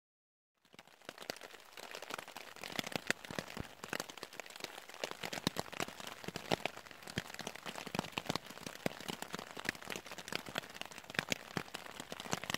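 Rain falling on a camping tarp overhead: many irregular sharp drop taps a second. It fades in out of silence about half a second in.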